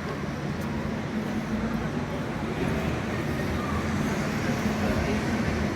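Outdoor city ambience: a steady low rumble with a hum, like distant traffic or machinery.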